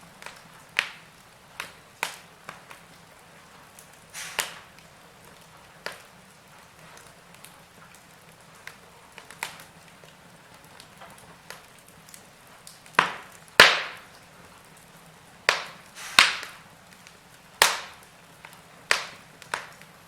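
Wood fire crackling in a fireplace: irregular sharp pops and snaps from the burning logs over a faint steady hiss, with the loudest pops coming about two thirds of the way through.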